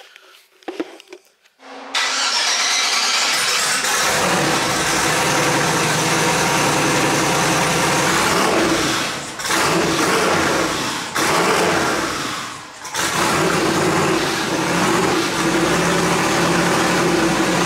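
Turbocharged LS V8 engine cranking and catching about two seconds in, then running loudly with its revs rising and falling. The sound sags several times, most deeply just past the middle, before picking back up.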